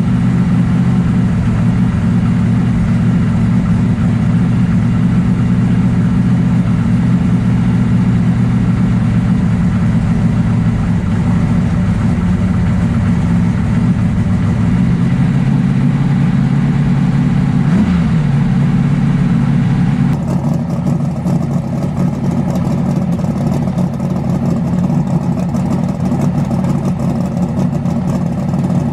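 Race car engine idling steadily and loudly, with a brief pitch wobble about two-thirds of the way in. After an abrupt change partway through, an engine keeps running with more mid-range sound.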